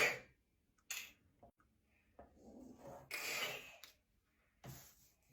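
A pen tracing over a letter on paper: a few short, soft scratching strokes, the longest about three seconds in.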